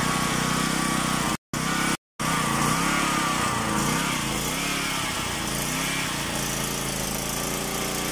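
Small 1.1 kW portable generator engine running, its note wavering up and down in speed for several seconds after the sound cuts out briefly twice about a second and a half in.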